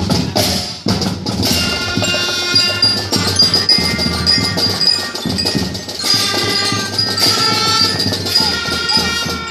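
Marching band playing: drum strokes under held notes, with a bright bell-like mallet percussion part.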